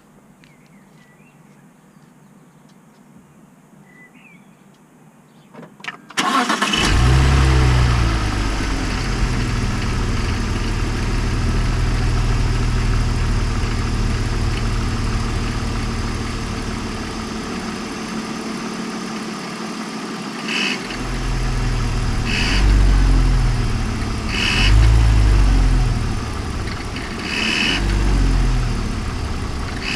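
BMW Z4 E85 2.2i's M54 straight-six cranked and started about six seconds in, then idling and settling, followed by four or five light throttle blips, each carrying a brief high squeal or whistle. The noise appears around 800 to 1000 rpm under light throttle; with belts and idler pulleys already replaced, the owner suspects the original alternator or the intake.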